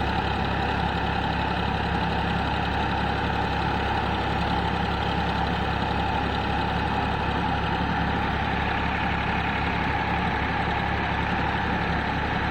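Powertrac tractor's diesel engine running steadily, driving a paddy thresher, making one unchanging mechanical drone.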